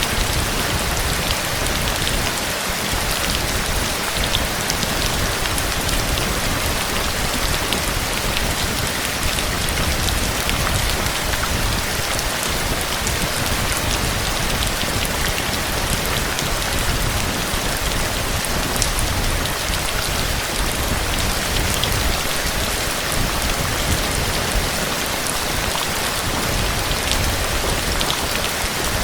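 Heavy rain falling steadily, with individual drops ticking on a surface over a low rumble.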